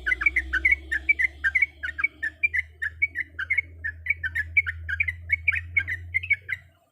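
A trucuk bulbul singing a fast, unbroken chatter of short notes, several a second, over a faint low hum; the song cuts off suddenly near the end.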